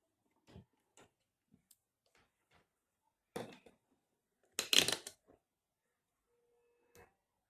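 Small handling noises from work at a bench: scattered light clicks and taps, with two louder brief rustling bursts about three and a half and five seconds in.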